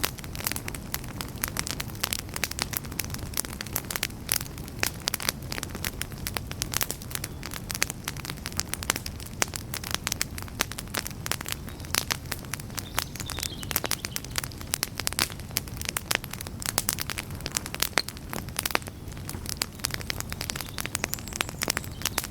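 Wood campfire burning with dense, irregular crackling and popping over a steady low rush of flame.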